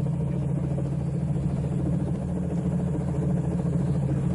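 Helicopter engine running with a steady mechanical drone.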